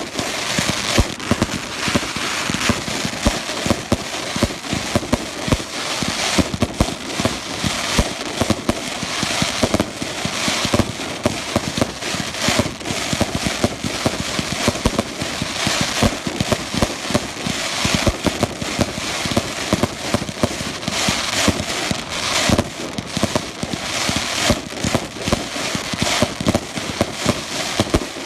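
Fireworks going off in a dense, continuous barrage: rapid, overlapping sharp bangs over steady crackling, with no let-up.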